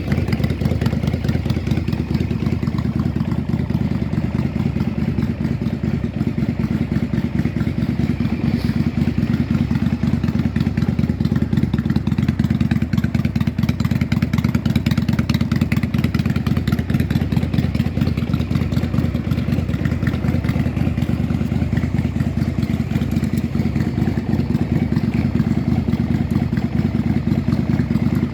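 Yamaha Drag Star 400 Classic's air-cooled V-twin engine idling steadily, with an even, rapid firing pulse.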